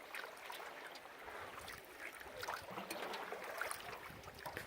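Faint water trickling and lapping around a moving canoe, with small scattered splashes and drips.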